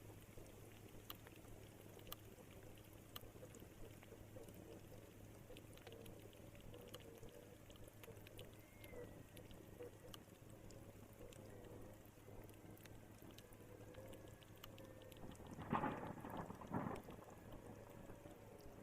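Faint rain with scattered dripping ticks over a steady low hum. Two short, louder sounds about a second apart, roughly three-quarters of the way through.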